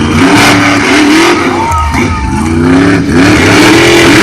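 Monster truck engines revving hard, their pitch rising and falling repeatedly as the trucks race over the jumps.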